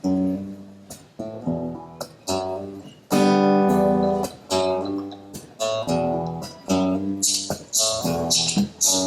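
Live band music led by strummed guitar chords, with a loud chord held for about a second around three seconds in. From about seven seconds, sharp, hissy strokes join in a quick rhythm.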